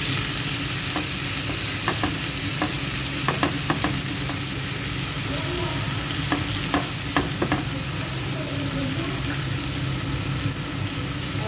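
Chicken strips sizzling steadily on a hot griddle pan while a wooden spatula stirs them, its edge scraping and tapping the pan in short clusters of sharp clicks a few seconds in and again past the middle.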